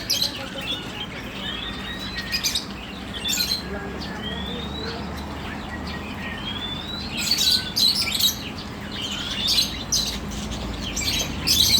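Budgerigar chirping and warbling: short rising whistles mixed with scratchy chatter, busiest about seven seconds in and again near the end.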